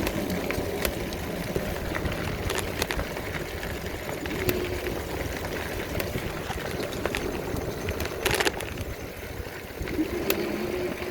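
Vehicle engine running steadily while driving, with scattered sharp clicks and rattles and one short louder rustle or knock about eight seconds in.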